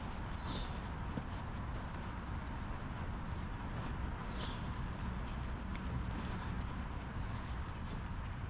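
Insects trilling steadily on one high-pitched note over low, steady outdoor background noise.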